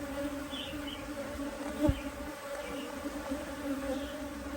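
Honeybees buzzing in an opened hive box during a frame inspection: a steady hum, with one soft knock about two seconds in.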